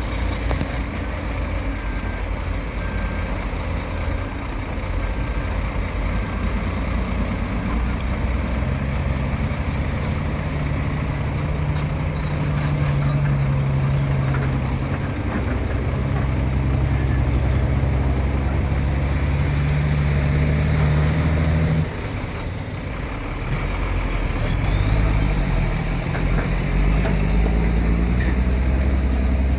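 Heavy diesel earthmoving machinery running under load as an excavator works with dump trucks. The engine note steps up about a third of the way in, drops back for a couple of seconds about three-quarters through, then picks up again. A thin high whine rises near the end.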